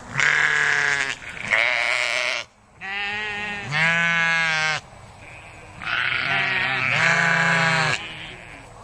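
Bleating livestock, about six loud, wavering bleats in three pairs with short pauses between.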